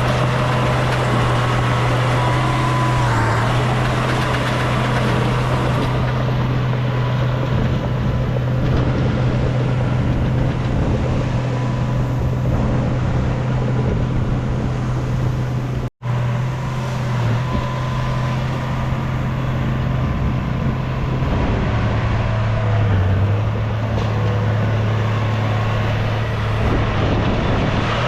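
Heavy diesel engine of earthmoving machinery running steadily under load, its low note wavering slightly. The sound cuts out for an instant about halfway through.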